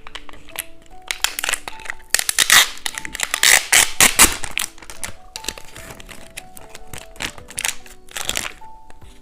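Plastic wrapper of a two-colour cheese-stick snack crinkling and tearing as it is unwrapped, busiest about a third of the way in, over background music with a simple plinking melody.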